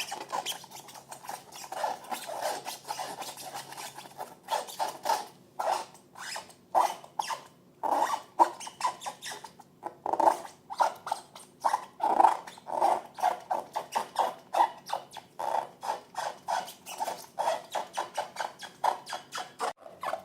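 Slime being squished and worked by hand: an irregular run of short sticky clicks and squelches, several a second.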